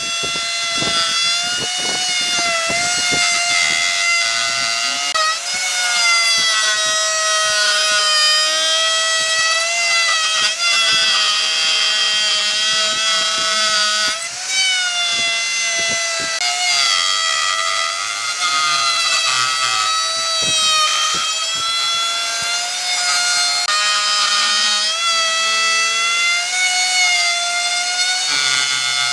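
A power tool cutting into hardwood gives a continuous high whine whose pitch wavers slightly as the load changes. Scattered short clicks and knocks come mostly in the first few seconds.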